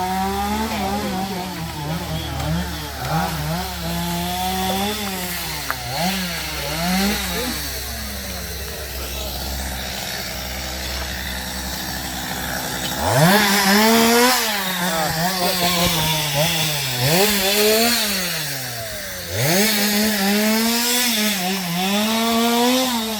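Chainsaw engine revving up and down again and again, as when clearing fallen trees. About thirteen seconds in it winds up hard from a low idle.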